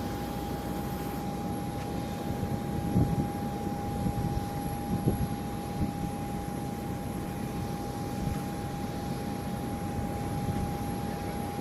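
F-35A Lightning II jet engine running at a distance, a steady whine over an uneven low rumble.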